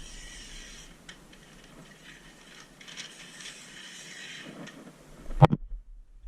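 Faint hiss with a few light clicks, then one loud, sharp clunk about five and a half seconds in, after which the sound cuts out.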